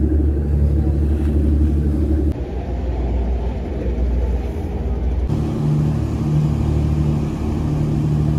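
Motor vehicle engine running steadily with a low hum, the sound changing abruptly twice, about two and five seconds in.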